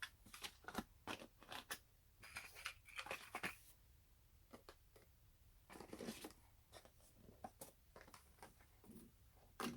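Cardboard packaging and paper inserts being handled: scattered soft taps and rustles, with a longer crinkling stretch about two seconds in.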